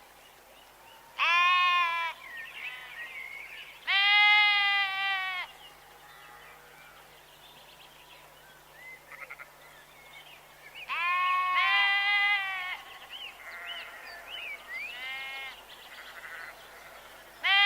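Young livestock bleating: several high-pitched bleats, each about a second long, with fainter calls in between.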